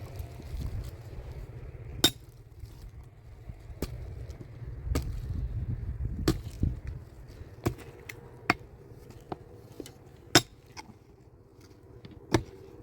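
Irregular sharp knocks and clinks of hard masonry work, about eight strikes spaced a second or two apart, over a low rumble that fades about halfway through.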